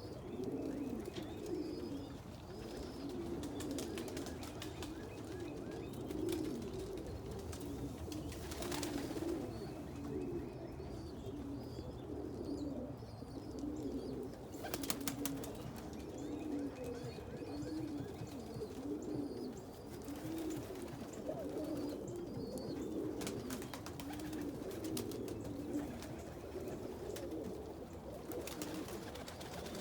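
Many domestic pigeons cooing together in a loft, a steady overlapping chorus of low coos, with faint high peeping from squabs. A few sharp clicks about 9 and 15 seconds in.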